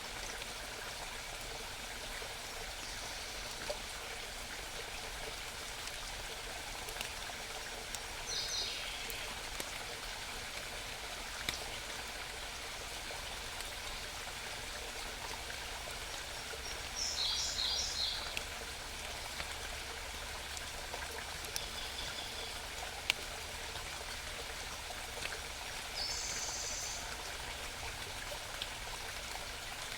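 A small mountain stream babbling steadily. A songbird sings short high bursts about five times, the loudest about halfway through. A few sharp ticks are also heard.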